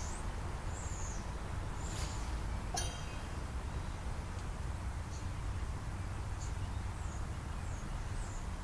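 Scattered short, high bird chirps that slide down in pitch, over a steady low rumble, with one sharp click about three seconds in.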